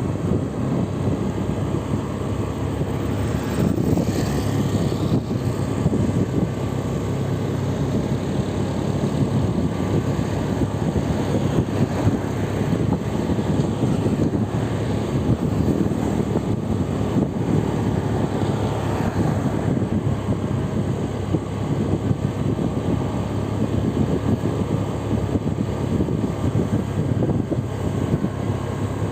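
Steady low rumble of road vehicle noise, engine and tyres on the road, with no pauses.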